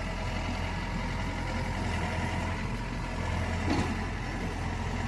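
Yanmar combine harvester running steadily, its engine humming low and even.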